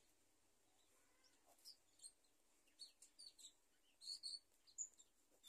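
Faint, scattered chirps of small birds, short high notes coming irregularly, with light scratching of a pen writing on notebook paper.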